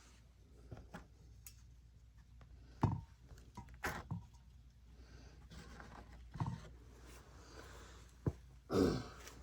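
Low steady hum with a few scattered knocks and clunks of handling, the loudest and longest near the end; no engine is running.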